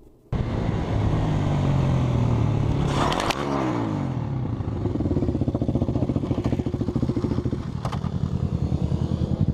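Motorcycle engine running loudly. About three seconds in there is a short noisy clatter while the engine note drops and climbs again, then the engine settles into a steady, pulsing run.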